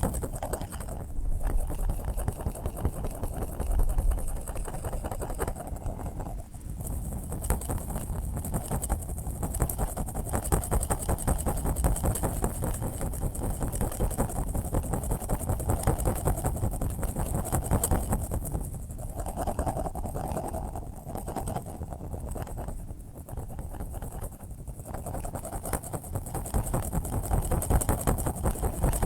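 Continuous sleep-aid noise: a dense rumbling hiss, heaviest at the low end with a separate high hiss on top, slowly swelling and dipping in loudness.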